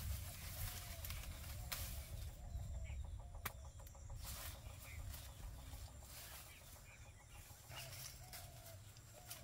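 Short bird calls, several times, over scattered clicks and rustling of plants being handled.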